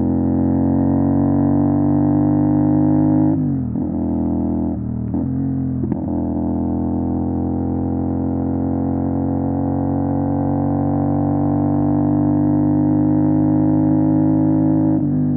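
CFMOTO 450 SR's parallel-twin engine through an MSH G6 full-system exhaust while riding. The engine note climbs slowly and drops sharply a little over three seconds in, with a few quick dips as the throttle is closed and reopened. It then climbs slowly again until another drop near the end.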